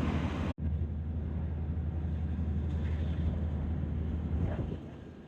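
Steady low rumble of a vehicle running, cut off for an instant about half a second in, then going on before fading lower near the end.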